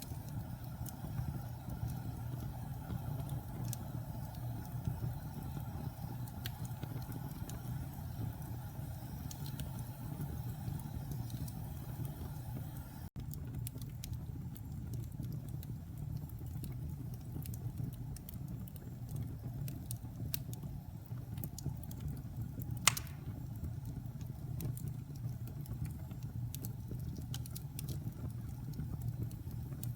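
Wood fire in a fireplace crackling, with scattered small pops over a steady low rumble and one sharper pop about 23 seconds in. The sound drops out for a moment about 13 seconds in.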